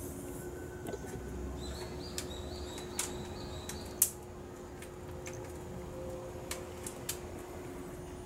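Small birds chirping outside the window in a short run of high notes, over a steady low hum. Scattered light clicks fall throughout, the loudest a single sharp click about four seconds in.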